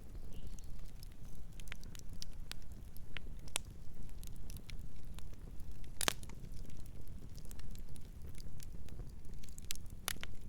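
Campfire crackling: irregular sharp pops and snaps over a steady low rumble, with one loud pop about halfway through and another near the end.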